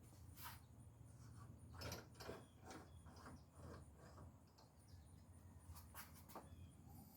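Near silence with a faint low hum and a scatter of faint short clicks, most of them around two seconds in and again near six seconds.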